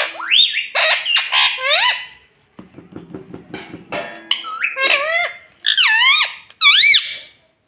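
Indian ringneck parrot (rose-ringed parakeet) giving loud, high squawking calls that swoop up and down in pitch, in two bursts separated by a short quiet gap.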